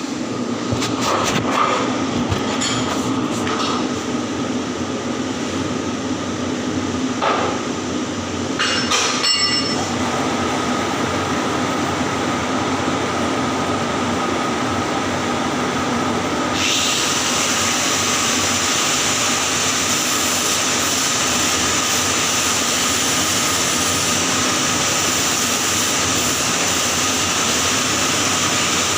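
Arc welding on pipe over a steady machine hum: a few short crackling strikes in the first ten seconds, then a steady arc hiss that starts suddenly a little past halfway and holds.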